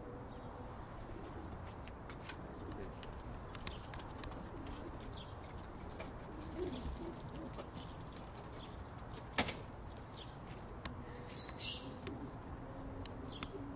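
Racing pigeons flapping their wings and cooing, with scattered light ticks and one sharp click about two-thirds of the way through. Two short high chirps come near the end.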